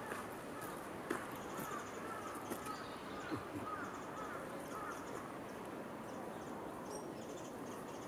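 Faint wild bird calls, a scatter of short chirps during the first five seconds, over a steady outdoor background hiss. Two soft clicks stand out, about a second in and again a little past three seconds.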